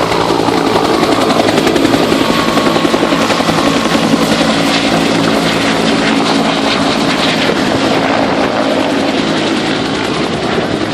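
Bell UH-1 and AH-1 military helicopters taking off, their main rotors beating in a rapid, steady chop over the turbine engine noise. The sound eases a little near the end.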